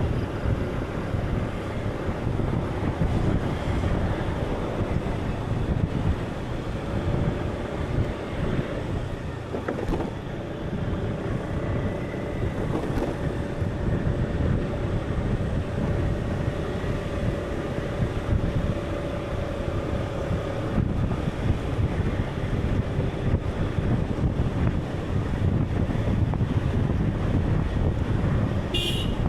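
A steady wind-and-sea ambience, with a deep rumble of wind and waves and a few faint held tones over it. A short, higher-pitched creak comes near the end.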